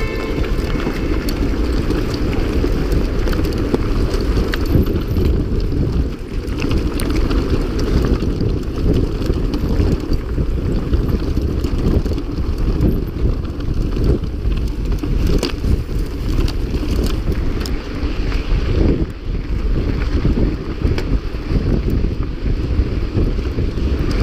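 Wind buffeting the microphone of a camera carried on a mountain bike moving at speed, a steady low rumble with scattered sharp clicks and knocks from the bike over rough ground.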